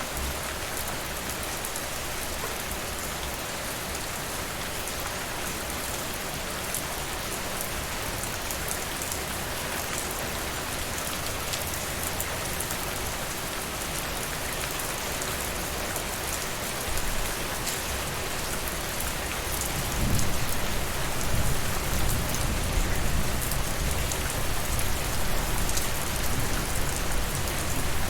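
Steady rain falling, with scattered sharp ticks. About twenty seconds in, a low rumble joins in and the sound grows louder.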